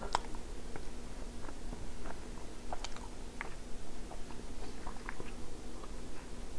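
Close-up chewing of soft macaroni and cheese, with short wet mouth clicks and smacks scattered through. A sharper click just after the start as a metal fork meets the plastic TV-dinner tray.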